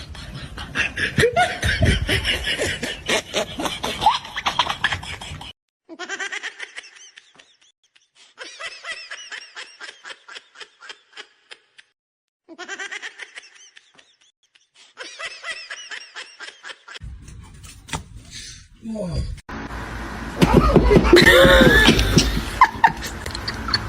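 People laughing in a series of short bursts of quick, repeated pulses, broken by several abrupt cuts to silence; the loudest laughter comes near the end.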